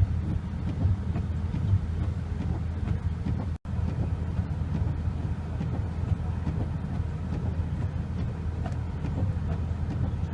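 Steady low rumble of a vehicle running, cutting out completely for an instant about three and a half seconds in.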